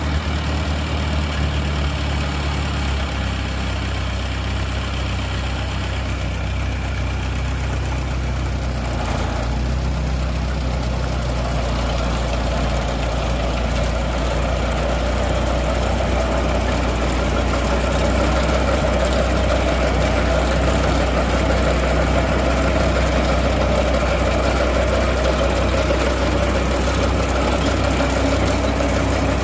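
Engine running steadily at about idle, driving an Allis-Chalmers Roto-Baler. Its low note steps about three seconds in and again around nine seconds. From about twelve seconds a higher mechanical whirr builds over it.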